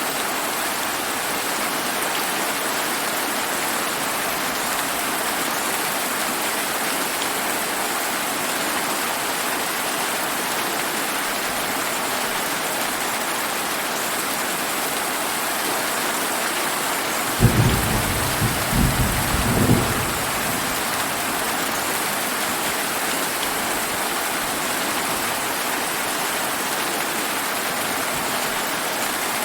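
Steady summer rain falling as an even hiss. About two-thirds of the way through, a sudden clap of thunder breaks in with a deep rumble of a few pulses that fades after about two seconds.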